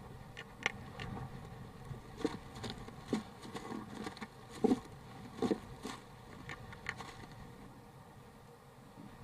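Irregular scratching and tapping inside a wooden nest box, about a dozen separate clicks, over a faint steady hum.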